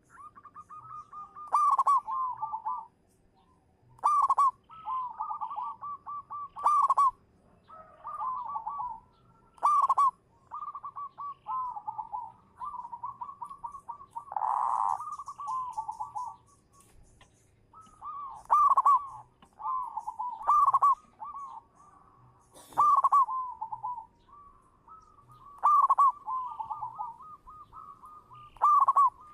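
Zebra dove (perkutut) cooing in repeated phrases, each a loud opening note followed by a quick rolling run of softer coos, every two to four seconds.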